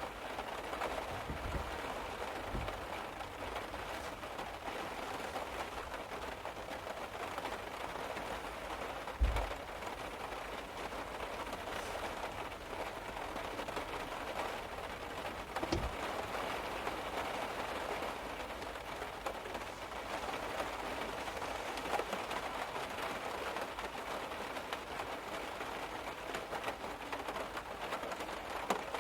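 Steady rain falling on a car's roof and body, heard from inside the car. A few soft low thumps stand out, the loudest about nine seconds in.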